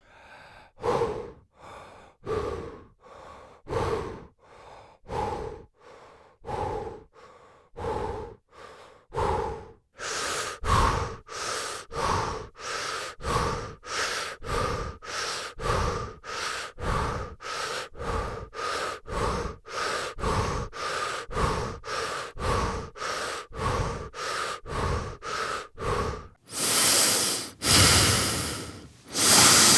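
A person breathing rhythmically: soft breaths at first, then about ten seconds in a faster, louder run of about two breaths a second like panting, and near the end a few long, loud, heavy breaths.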